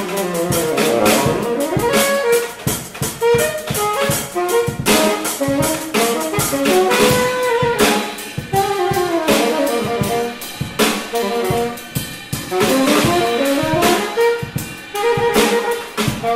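Jazz band playing: a saxophone carries a running melody over a drum kit.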